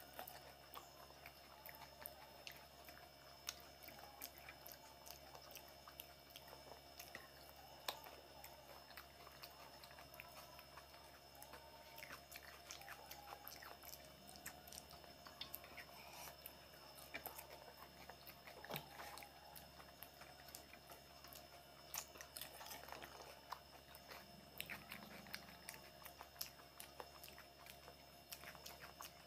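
Faint chewing and crunching of fuchka (panipuri), crisp hollow puri shells eaten filled with tamarind water, with many small crunches and clicks.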